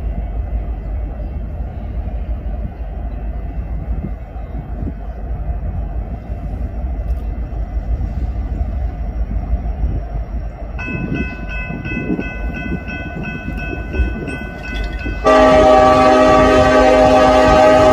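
Freight train locomotive air horn: a steady low rumble, then a faint multi-note horn sounding about two-thirds of the way through, followed by a much louder, sustained horn chord that starts abruptly near the end.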